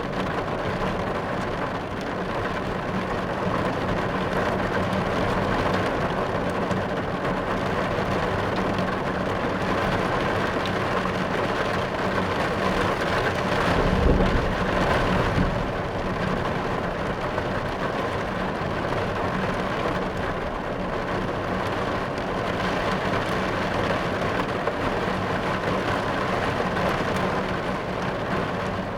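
Heavy rain drumming steadily on a car's roof and windows, heard from inside the car, with a low rumble of thunder about halfway through.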